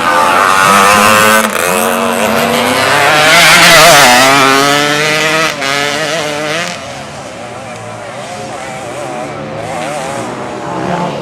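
Several racing motorcycle engines revving hard, their pitch rising and falling with throttle and gear changes as the bikes pass; loudest about four seconds in, then fading somewhat.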